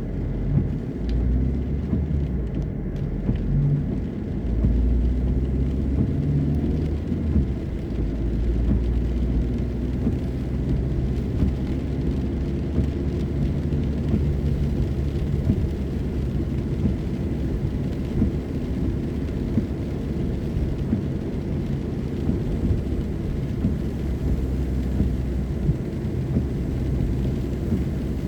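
A car driving on a wet road in the rain, with a steady low rumble of engine and tyres.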